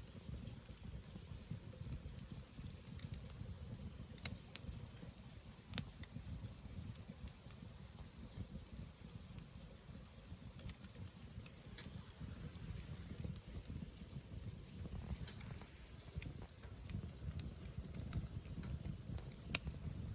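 Wood fire burning in a portable fire pit: scattered sharp crackles and pops over a steady low rumble.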